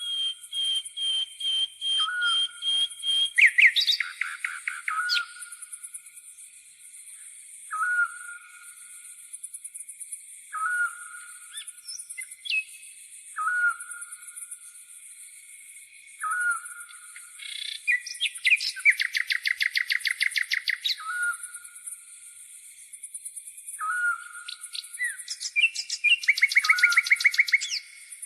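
Nature ambience: a grasshopper's continuous high-pitched buzzing, a short whistled bird note repeated about every three seconds, and songbirds' rapid chirping trills in bursts, loudest about four seconds in, around the middle and near the end.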